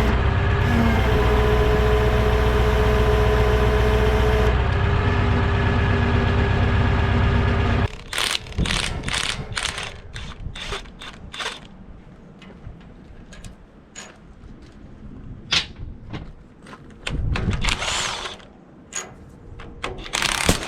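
A heavy-equipment diesel engine running steadily, its pitch shifting briefly about a second in, then shutting off abruptly about eight seconds in. After it stops there are scattered sharp metallic clicks and knocks.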